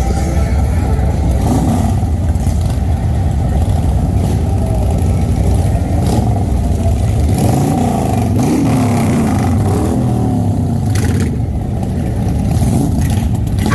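Motorcycle engines running with a loud, low rumble. From about 7 to 11 seconds in, the engine pitch rises and falls as bikes rev or ride past.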